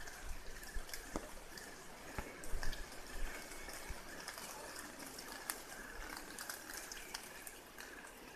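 Faint, rapid high-pitched chirping of nestlings in a nest in an old tree, with a few scattered ticks.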